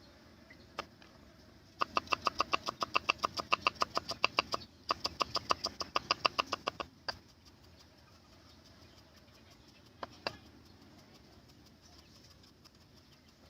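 Knife chopping on a cutting board: two fast runs of sharp, even knocks at about five or six a second, then a single knock a few seconds later.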